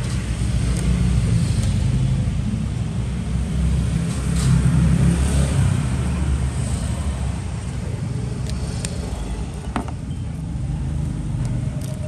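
Low rumble of passing road traffic, swelling about four seconds in, with a couple of short clicks near the end.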